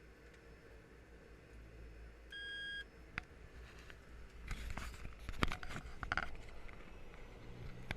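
A single short electronic beep a little over two seconds in, then a cluster of sharp clicks and knocks a couple of seconds later, over a steady low hum.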